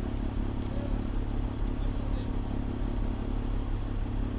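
Fire engine's diesel engine running steadily with an even low hum.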